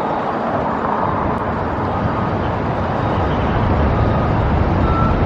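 Steady low rumble of heavy vehicle engines that grows stronger in the second half, with a couple of faint short high beeps near the end.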